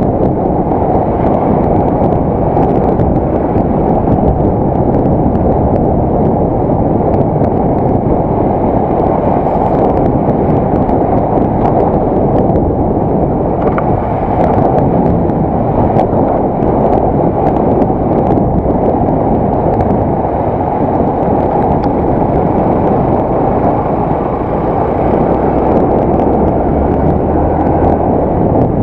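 Yamaha YBR 125 motorcycle, a single-cylinder 125 cc four-stroke, on the move, picked up with its wind rush by a helmet-mounted action camera. The noise is a loud, steady, muffled rumble.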